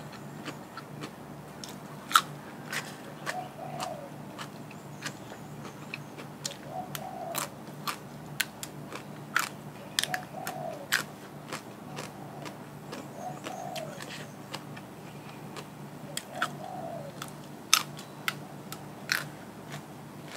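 A person chewing and crunching crisp food close to the microphone: irregular sharp crunches, a few of them much louder, over a low steady hum.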